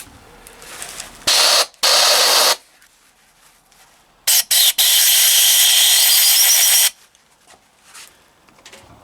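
Pressurised jet hissing in sharp-edged blasts, two short ones and then one of about two and a half seconds, as the Triumph T140 crankshaft's sludge trap bore and oilways are blown and flushed clean, with light clicks and handling in between.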